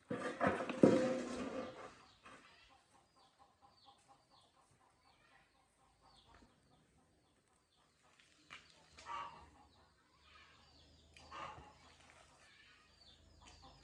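Birds calling, chicken-like: one loud call of about two seconds at the start, then many short high chirps and two fainter calls later on.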